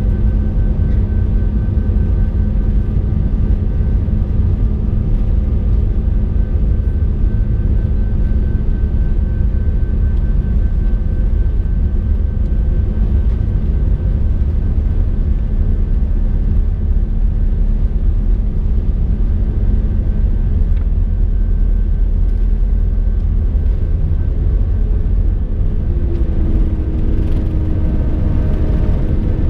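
Airbus A319 jet engines running, heard inside the cabin as a loud, steady low rumble with a steady whine over it. Near the end, one of the tones drops slightly in pitch.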